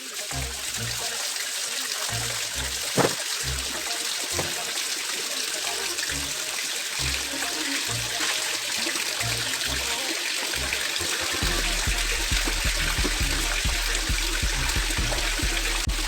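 Water running and splashing as a blanket is washed by hand, with a short sharp knock about three seconds in, over background music with a steady bass beat.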